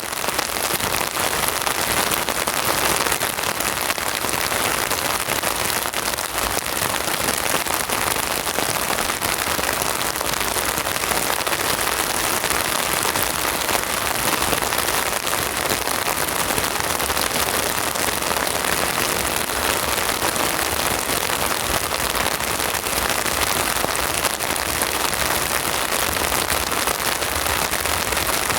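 Steady rain falling, a loud, even hiss of rain on surfaces with no train or other distinct sound standing out.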